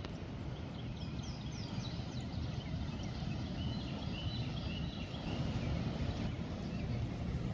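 Steady rush of flowing river water, with a quick series of short, high, falling bird chirps over its first few seconds.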